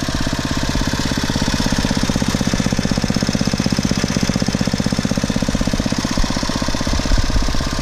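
A 5 HP Briggs & Stratton horizontal-shaft single-cylinder engine running steadily, freshly tuned up with a new spark plug, oil and air filter.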